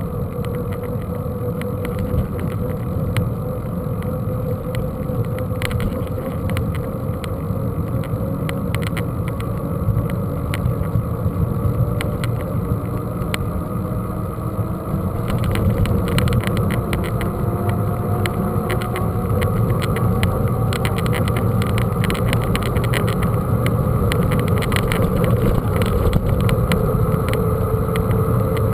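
Steady low rumble of wind and rolling noise, with many small rattles and clicks and a faint wavering tone; it grows a little louder about halfway through.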